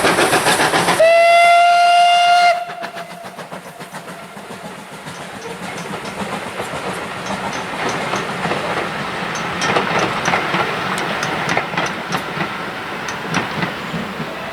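Steam locomotive working with quick, even exhaust beats, then a loud steady steam whistle blast of about a second and a half that stops abruptly. After that a quieter, slowly building rumble of a train on the rails with scattered clicks from the wheels.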